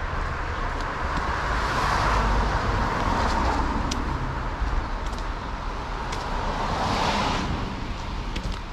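City street traffic: a steady low rumble with two cars passing close by, one swelling and fading about two seconds in and another near the end.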